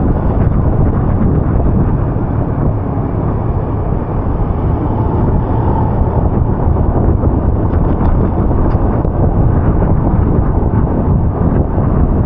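Steady low rumble of a vehicle travelling along rain-wet streets, with wind buffeting the microphone.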